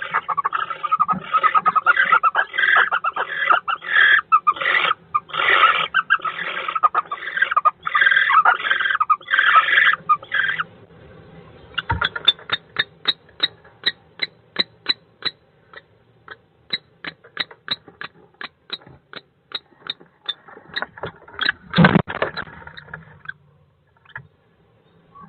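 Bird in a nest box giving rapidly repeated harsh calls for about ten seconds, followed by a long run of short sharp clicks that gradually slow, with one loud thump near the end.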